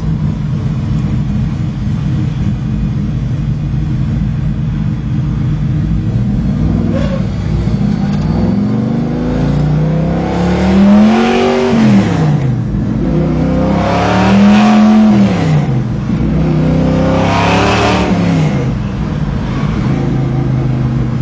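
Naturally aspirated 572 big-block V8 with dual 3-inch exhaust and headers, cruising steadily, then revving up and dropping back three times as the throttle is rolled on and off, before settling back to a steady drone.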